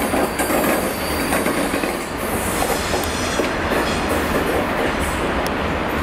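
A freight train of EWS bogie hopper wagons rolling steadily past, a continuous rumble of wagon wheels on the rails with occasional sharp clicks as they cross joints.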